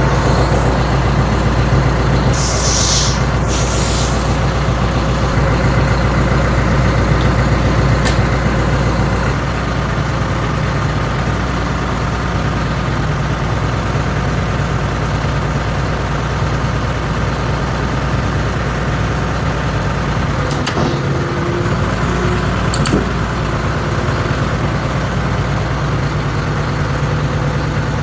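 An engine or motor running steadily, with two short hisses of air about two and a half and four seconds in.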